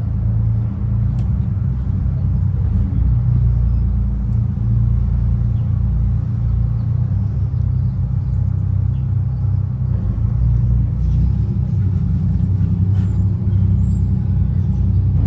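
A motor yacht's inboard engines running steadily at low speed, a deep, even rumble.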